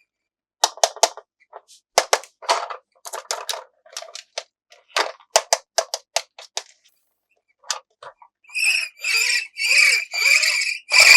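Plastic toy packaging being handled and opened: a quick run of sharp clicks and crackles, then, from about eight seconds in, a string of half-second rasping strokes.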